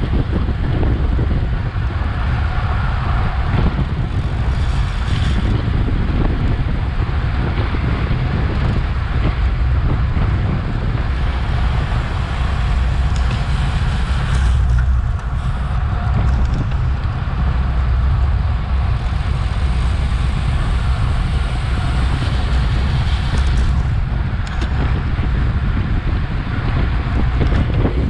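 Steady wind noise buffeting an action camera's microphone on a racing bicycle moving at speed, with a deep rumble.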